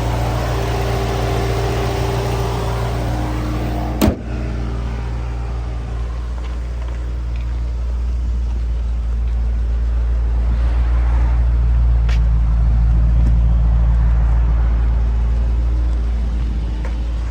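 The Challenger SRT8's 6.4-litre 392 Hemi V8 idling steadily. There is one sharp knock about four seconds in, and the low exhaust rumble grows louder between about ten and fifteen seconds in.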